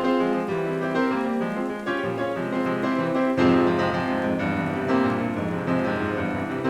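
Classical chamber music with piano, full and continuous, with several instruments' notes sounding together.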